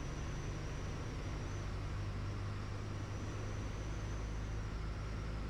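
Cabin sound of a Piper Tomahawk PA-38-112 on final approach: the steady drone of its four-cylinder Lycoming engine and propeller, with a faint high whine over it.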